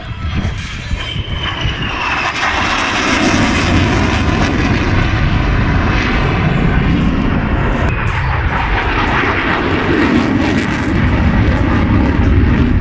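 Loud engine noise of a fixed-wing aircraft flying a display pass. It swells over the first couple of seconds and then holds steady, with a faint falling whine about a second in.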